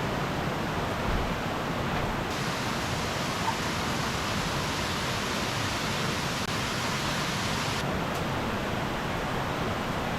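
Steady rushing water noise from heavy monsoon rain and a swollen, flooding valley stream.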